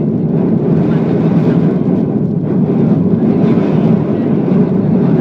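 Jet airliner engines during takeoff: a loud, steady rumble with little change in level.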